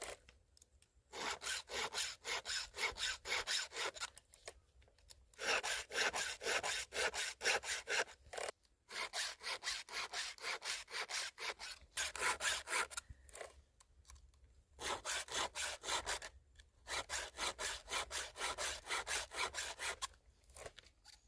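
A file scraping the cutters of a chainsaw chain to sharpen them: quick, even back-and-forth strokes in runs of several seconds, with short pauses between runs.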